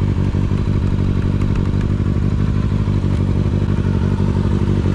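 2009 Kawasaki ZX-6R's inline-four engine running at a steady speed, loud and even, with no revving.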